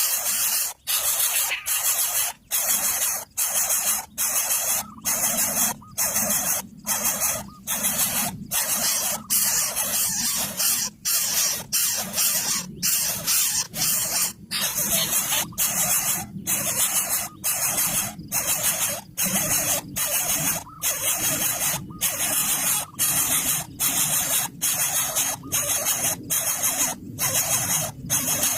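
Harsh, hissing animal squeals, repeated over and over with only short breaks about once or twice a second.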